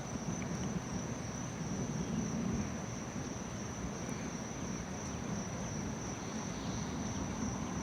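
Crickets trilling steadily in one high, even tone, over a low rumble of distant thunder.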